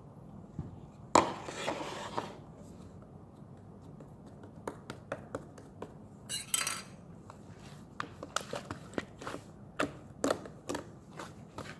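Close-up handling noises: a loud scraping rustle about a second in, another brief rustle midway, and a growing run of small sharp clicks and clinks toward the end.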